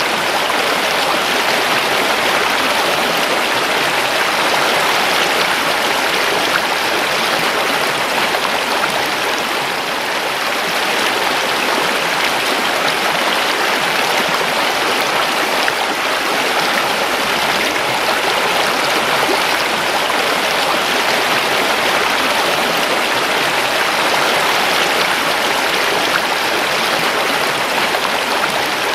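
A river flowing, its water rushing and splashing in a steady, even hiss.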